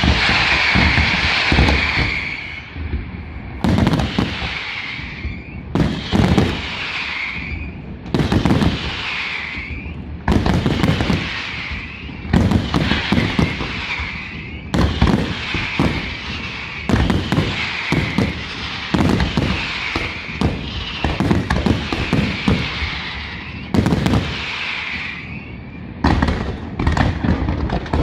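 Aerial firework shells bursting in quick succession, a sharp bang every one to two seconds, each followed by a hissing, sizzling trail that fades over about a second.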